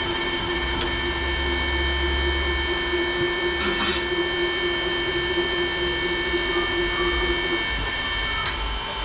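A steady machine hum made of several fixed tones, the lowest of which drops out near the end, with a few light clicks and a brief rattle about four seconds in.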